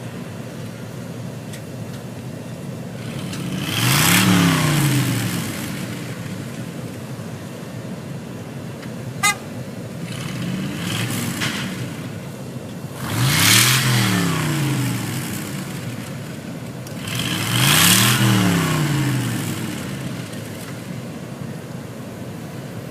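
Truck engine revving up and back down three times, each rev with a rushing hiss, over a steady lower engine sound. A weaker rev comes between the first two, and there is a brief sharp chirp about nine seconds in.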